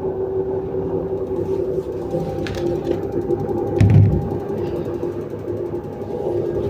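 A machine running with a steady tonal hum and rattling, with a heavy low knock about four seconds in; this is the knocking and rattling whose cause the owner is asking about.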